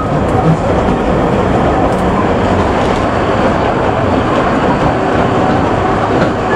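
Kurobe Gorge Railway narrow-gauge train running along the track, heard from on board: a steady rumble and rattle of the wheels and carriage.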